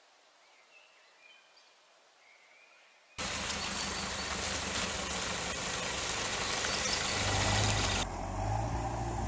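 Faint quiet for about three seconds, then an abrupt start of an SUV driving on a forest road: steady engine hum with tyre and road noise. About eight seconds in the sound changes suddenly to a duller, lower engine hum.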